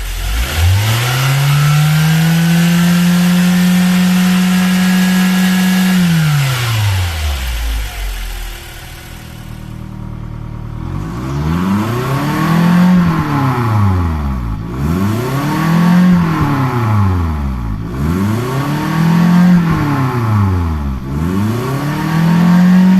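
Toyota 1TR-FE 2.0-litre four-cylinder petrol engine being revved: it climbs quickly, holds high revs for about five seconds and drops back to idle, then is revved up and let fall four more times, about once every three seconds.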